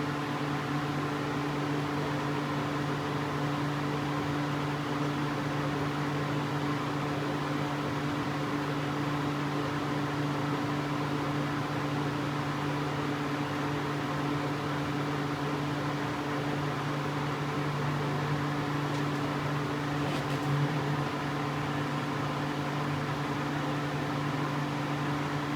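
A steady machine hum, a low tone with a second tone an octave above it, over an even hiss, unchanging throughout: a fan or air-conditioning unit running in the room.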